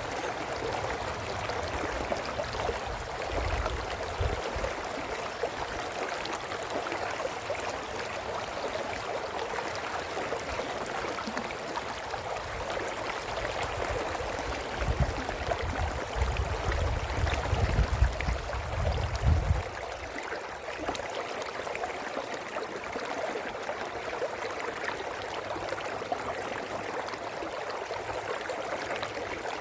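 Brook running steadily: a continuous babble of flowing water. A low rumble swells underneath twice, briefly near the start and for several seconds past the middle.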